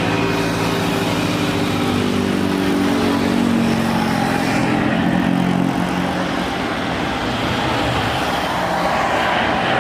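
Motor vehicle traffic: one engine passes with its pitch sagging and fading over about five seconds, leaving a steady rush of road noise.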